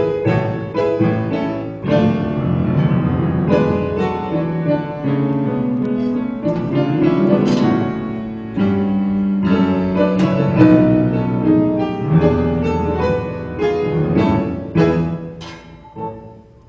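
Instrumental music led by piano, a dense run of notes over held lower tones, with the final notes dying away near the end as the piece closes.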